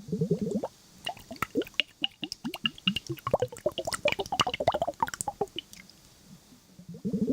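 Wet liquid sounds: a quick run of small drips, plops and squishes, with a short rising gurgle at the start and another near the end.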